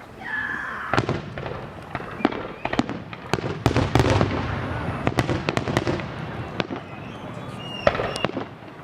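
Aerial fireworks going off: a rapid run of sharp bangs and crackles, thickest about three to six seconds in, with low booms under them.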